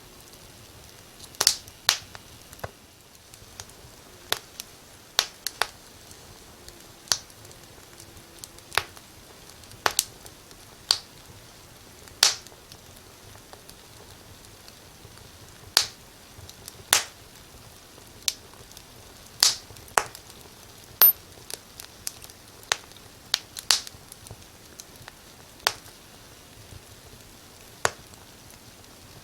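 Fire in a fireplace crackling: sharp pops at uneven intervals, roughly one a second, over a faint steady hiss.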